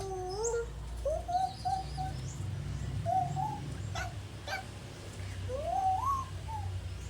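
A person calling pigeons to come and feed, with a string of drawn-out wavering calls, one sliding upward about five and a half seconds in. There are faint high bird chirps and two sharp clicks around the middle, over a steady low rumble.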